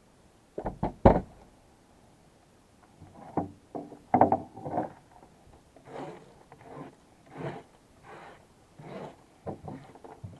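Irregular knocks and bumps of things being handled: three sharp knocks in quick succession about half a second in, a louder clatter around four seconds, then softer short bumps.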